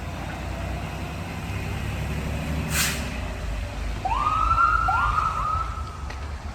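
An emergency vehicle's siren winding up in a few quick rising sweeps that level off, starting about two-thirds of the way in, over the steady low rumble of a vehicle engine. A short hiss comes about halfway through.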